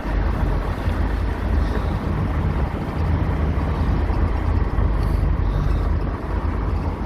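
Steady wind rush and road and engine noise inside a door-less Honda CR-V on the move, with wind buffeting the microphone through the open door frames.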